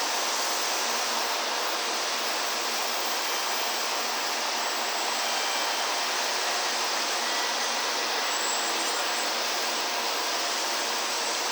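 Shinkansen bullet train running along the platform, a steady rushing noise of air and wheels on rail.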